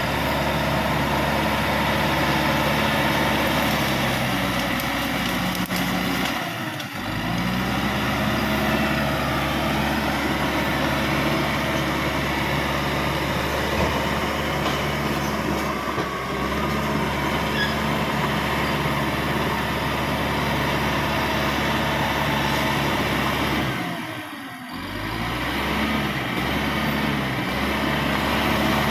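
Bulldozer diesel engine running steadily under load. Its note dips and climbs back twice, about a quarter of the way in and near the end, as the throttle eases and picks up again.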